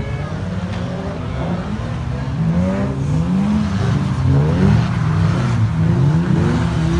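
Several banger racing cars' engines revving, the pitch of each rising and falling and overlapping with the others as the cars accelerate and lift off round the track.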